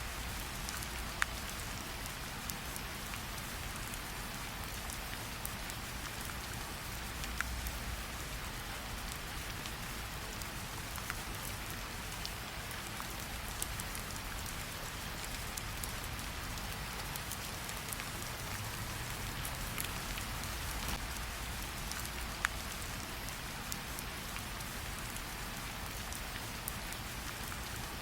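Steady rain falling, mixed with a campfire that gives occasional single sharp pops and crackles.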